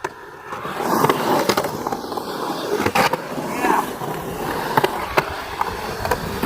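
Skateboard rolling fast on concrete, the wheels giving a steady rumble, with several sharp clacks of the board and trucks hitting along the way.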